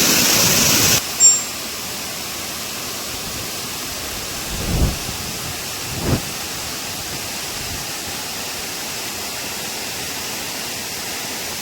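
Waterfall's rushing water, a steady even hiss. It steps down in level about a second in, and two brief low thumps come near the middle.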